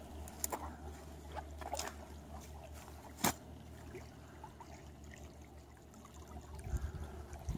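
Pond water trickling and sloshing lightly, with scattered small clicks and one sharper click about three seconds in.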